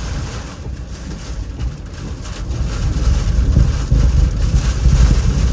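Hurricane-force wind gusting with rain, buffeting the microphone in a heavy low rumble that builds louder about halfway through.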